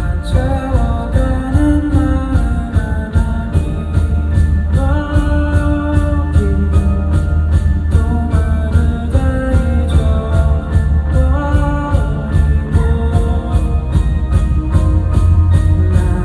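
Live band music with a steady drum beat and heavy bass under sustained melodic lines.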